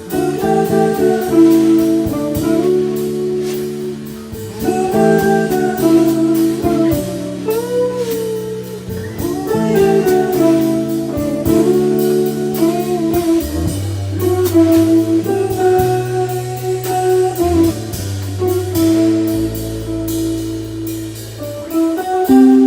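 Jazz-blues music: a guitar plays a melodic line with bent, sliding notes over bass and a drum kit keeping a steady beat.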